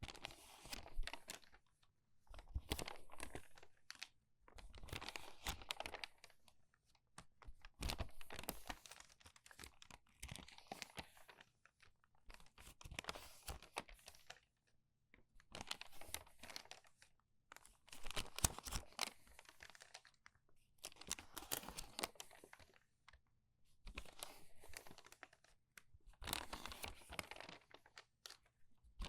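Crumpled paper pages being turned quickly by hand, each turn a crinkly rustle and crackle lasting a second or two, about one every two seconds with brief pauses between.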